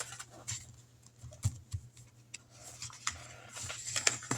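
Paper handling: dollar bills and paper envelopes being rustled and shuffled, with scattered light taps and clicks and a short burst of rustling near the end.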